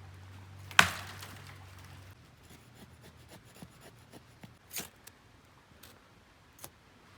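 A single sharp knock about a second in, then a scattered series of light clicks and ticks. A low steady hum runs underneath and stops about two seconds in.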